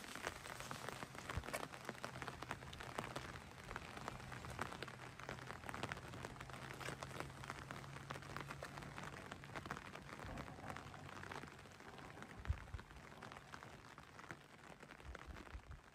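Rain falling steadily, a dense patter of small drop impacts. A faint low hum underneath stops about eleven seconds in, and there is a single sharp knock shortly after; the rain fades out near the end.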